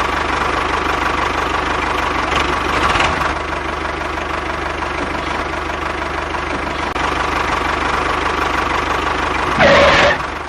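Small engine of a DIY mini tractor running steadily with a rapid knocking clatter, briefly louder near the end.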